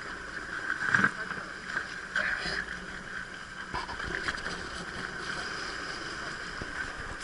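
Fishing ferry boat's engine running steadily under wind and sea noise, with a few short knocks, the loudest about a second in.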